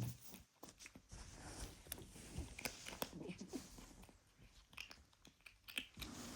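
A kitten chewing and crunching food, heard as quiet, quick, irregular clicks.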